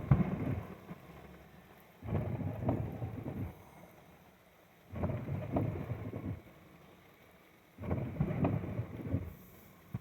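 Aerial fireworks going off. A bang opens each burst and trails into about a second and a half of crackle, one every two to three seconds.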